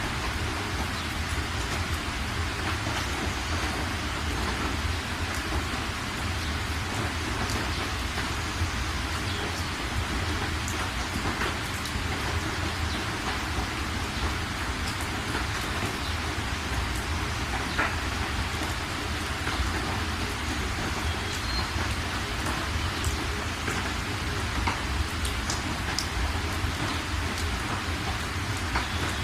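Steady rain falling: a dense, even hiss with scattered sharp drop ticks over a continuous low rumble.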